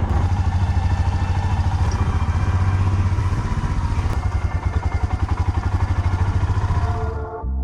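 Royal Enfield Himalayan's single-cylinder engine running with an even pulsing beat, cutting off about seven seconds in.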